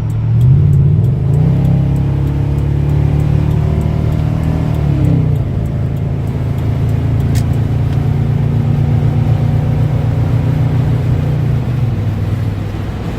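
Exhaust drone of a 1997 Chevrolet Silverado's stock 5.7-litre V8 through aftermarket Dynamax bullet mufflers, heard from inside the cab while driving at freeway speed. The deep note rises about half a second in and climbs again shortly after, drops about five seconds in, then holds steady until it falls again near the end.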